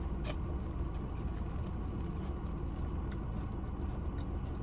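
A person chewing food close to the microphone, with small scattered mouth clicks, over a steady low rumble.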